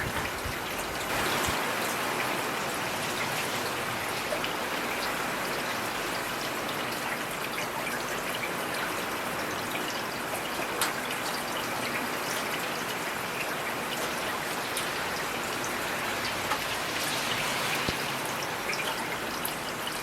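Heavy rain falling steadily, a continuous hiss of drops with scattered sharper drop ticks.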